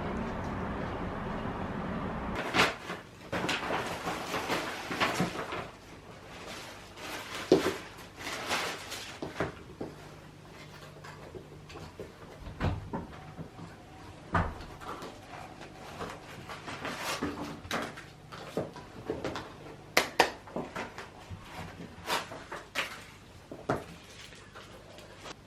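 A steady rumbling noise that cuts off about two seconds in, followed by a string of irregular knocks, clicks and rustles of objects being handled.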